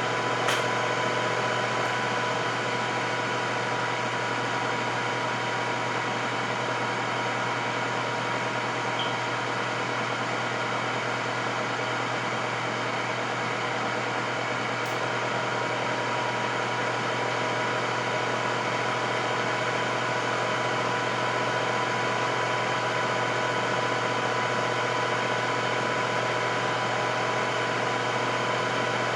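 Electric air fryer running: a steady fan whir with a constant low hum.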